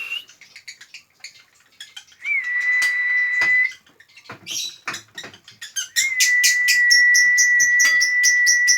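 A high whistle held on one steady note, first briefly and then for about four seconds, with quick high bird chirps over the long note. A few sharp knocks fall in the gap between the two notes.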